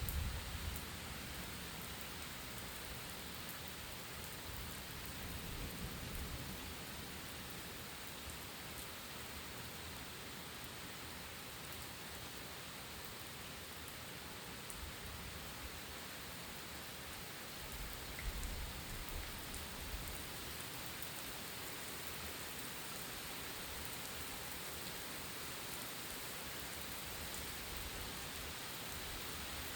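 Steady heavy rain falling in a thunderstorm, an even hiss, with two faint low rumbles of distant thunder, about six seconds in and about eighteen seconds in.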